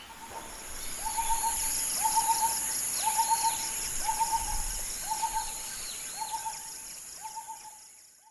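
A bird giving a short hooting call about once a second, over and over, fading out near the end, over a steady high-pitched buzz.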